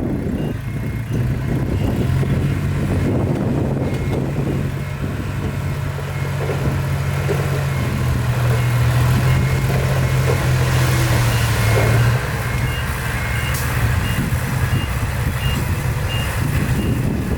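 A heavy construction vehicle's diesel engine runs with a steady low drone, over the repeated beeping of a reversing alarm. The engine drone drops back about twelve seconds in.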